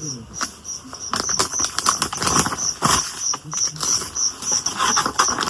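Rain pattering on the tent in many irregular taps, with an insect chirping steadily about three times a second.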